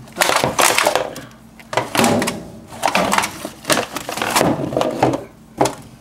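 Brooms and other stored items being shifted by hand, their handles knocking and clattering against each other and the wall in several irregular bouts of scraping and banging.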